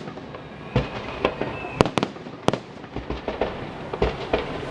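Fireworks salute: aerial shells bursting in an irregular series of sharp bangs, one or two a second, with smaller crackles and rumbling echoes between them.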